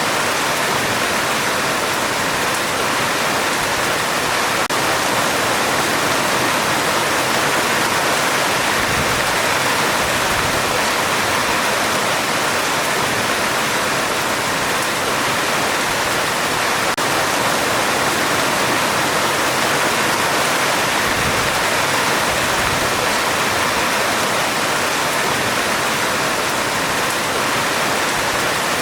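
Heavy rain falling steadily on a metal roof, a dense, even hiss with no let-up.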